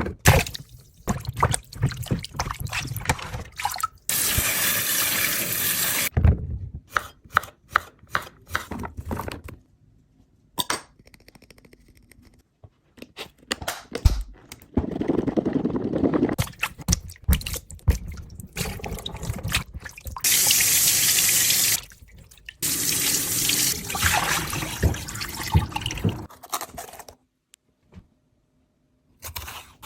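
Kitchen tap running in short spells, with water splashing and many clicks and knocks from produce and containers being handled at the sink.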